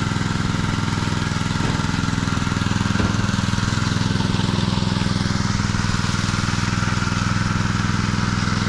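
An engine running steadily at a constant speed, with a couple of faint knocks in the first few seconds.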